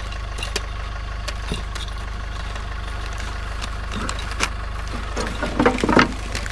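A vehicle engine idling steadily, with scattered clicks and a short patch of clattering, like hard objects being handled, near the end.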